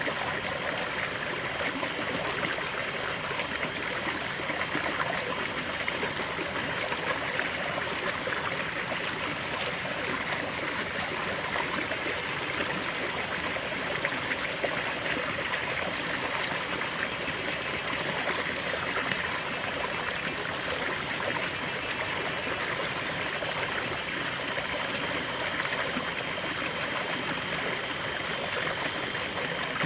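Water from a small forest stream splashing and trickling over a low cascade, a steady even rush with bright splashing and no pauses.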